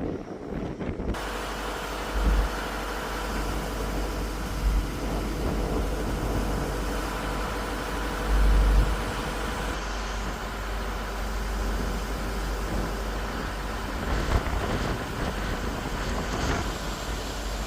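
Wind buffeting the microphone, with low rumbling gusts over a steady outdoor rushing noise; the sound changes abruptly about a second in.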